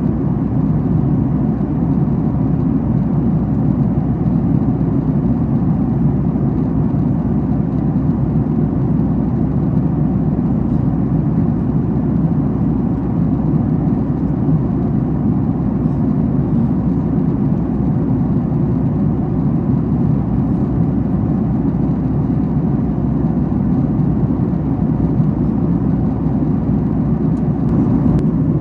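Steady cabin noise of a Boeing 737 MAX 8 at cruise, heard inside the cabin: an even, deep rush of airflow and CFM LEAP-1B engine hum that holds constant.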